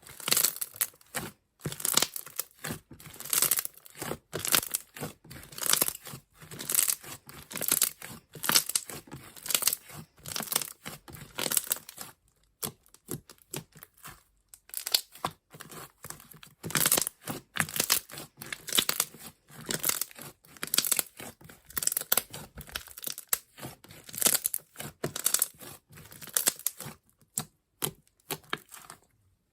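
Iceberg slime being squeezed and poked by hand, its dried top crust crackling and crunching in rapid, irregular bursts, with a short pause about halfway through.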